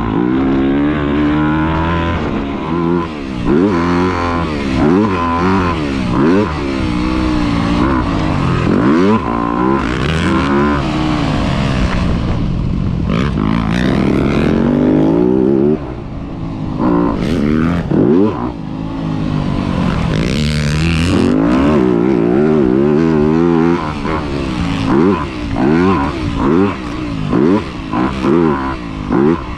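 Motocross dirt bike engine being ridden hard, its revs climbing and falling again and again, about once a second, as it works through the gears.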